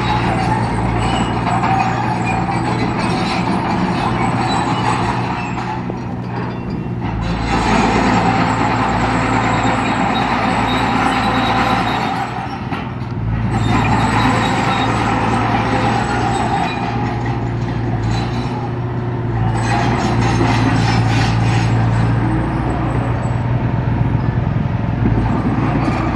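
Heavy diesel engine of a construction machine running hard and steadily, with mechanical clatter over it; the sound eases off briefly three times and comes back up.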